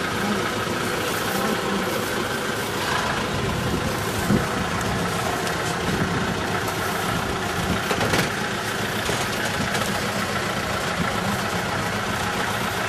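A vehicle engine idling steadily, with one short knock about four seconds in.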